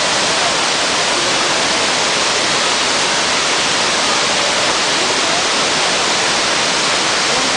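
Steady, loud rush of Shiraito Falls: many thin threads of water pouring over a wide, 20 m high cliff face, an even hiss with no change.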